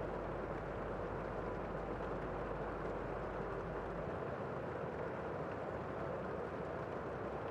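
Steady rain falling outside a window, heard from indoors as a continuous, even hiss with no separate drops or thunder.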